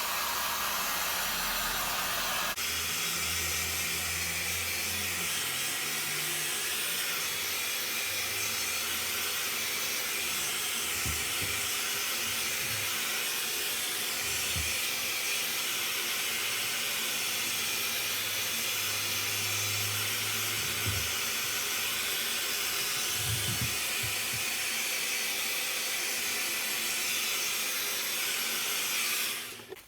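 Heat gun blowing hot air in a steady hiss, switched off just before the end.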